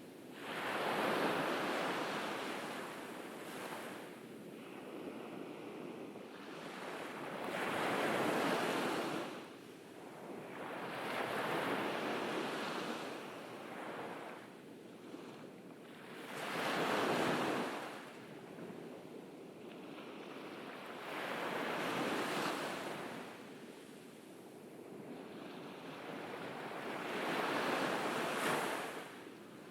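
Ocean waves breaking on a beach, each one surging up and washing back, about six waves spaced some five seconds apart.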